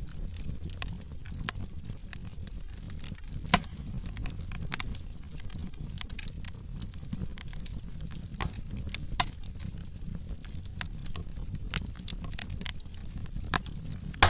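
Wood fire in a fireplace crackling, with irregular sharp pops from the burning logs, one louder pop about three and a half seconds in, over a low steady rumble of the flames.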